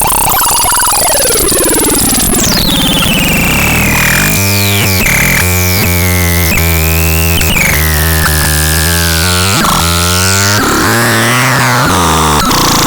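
Harsh electronic synthesizer noise: a loud noisy wash with pitch sweeps gliding downward. From about four seconds in, a low buzzing tone holds steady for several seconds, then breaks up near ten seconds.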